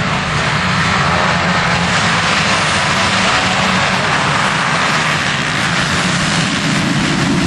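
Motocross bike engines running, a loud steady dense drone.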